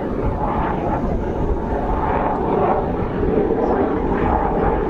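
Jet Provost Mk5's single Viper turbojet heard as the aircraft flies its display: a steady, even jet noise with no distinct tones.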